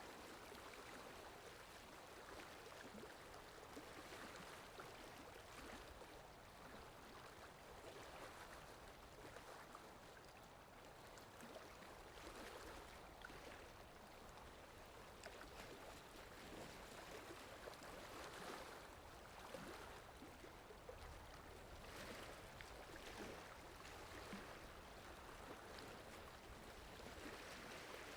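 Faint, steady sound of a flowing stream, gently swelling and easing, played as a water sound effect.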